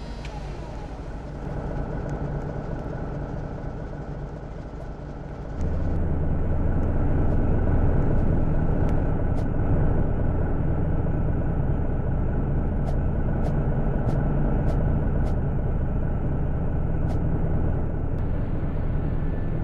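Motor vehicle engine running steadily, with a low hum that gets suddenly louder about five seconds in and stays loud.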